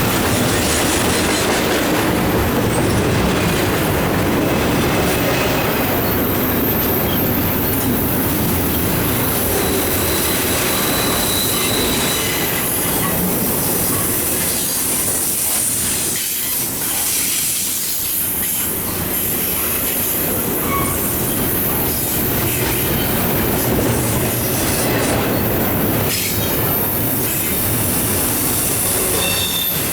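Norfolk Southern autorack and intermodal freight cars rolling steadily past, steel wheels rumbling on the rails, with short high-pitched squeals from the wheels here and there.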